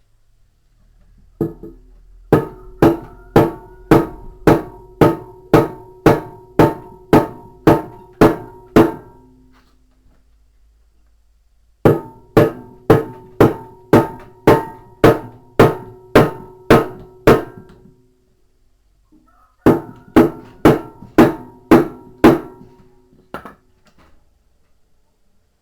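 Hammer blows on metal, about two a second in three runs with short pauses between, each strike ringing with a metallic tone.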